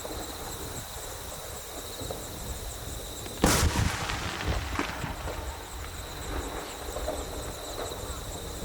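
A firework shell bursting with one sharp bang about three and a half seconds in, followed by a brief trail of crackles, over a low rumble.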